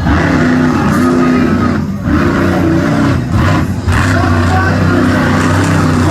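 Monster truck engine revving hard during a freestyle run, its pitch stepping up and down, with short dips about two seconds in and twice more near the middle.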